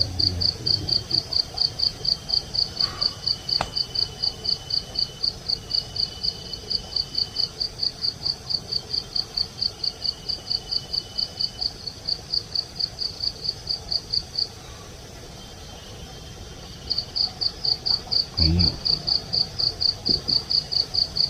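A cricket chirping in a fast, even rhythm, about four or five high chirps a second. It falls silent for a couple of seconds past the middle and then starts again. Fainter, thin high insect trills run underneath.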